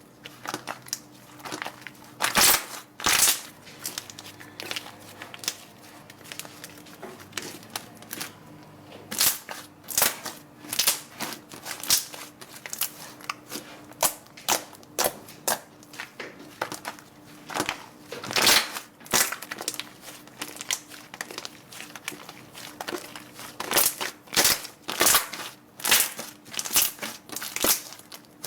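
Slime being pressed and squeezed by hand: a series of sharp, crisp crunches and crackles at an irregular pace, with quieter crackling in between.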